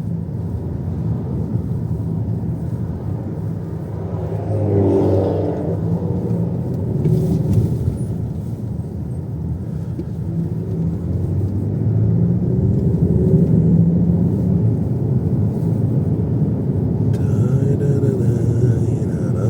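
Steady rumble of tyre and engine noise inside the cabin of a moving car, rising and easing slightly with the traffic; the car is on winter, non-studded tyres.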